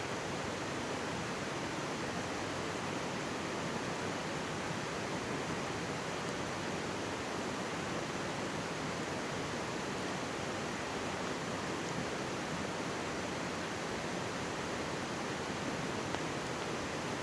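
Mountain stream running close by: a steady, even rush of flowing water.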